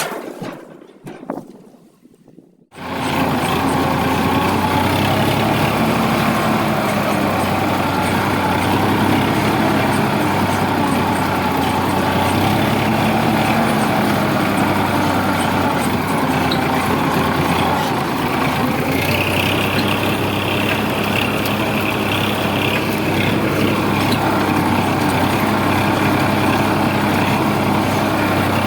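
Sonalika DI 745 tractor's diesel engine running steadily under load, pulling a heavily loaded trolley. It comes in suddenly about three seconds in, and a higher whine joins for a few seconds past the middle.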